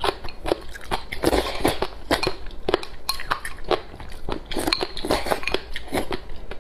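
Close-up chewing of crisp pickled shredded papaya with porridge: a quick run of small wet crunches and mouth sounds, with the porridge sipped from the bowl partway through.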